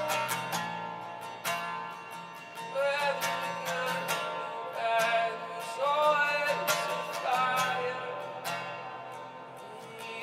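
Worship music: an acoustic guitar strummed steadily, with a voice singing a slow, wordless melody over it.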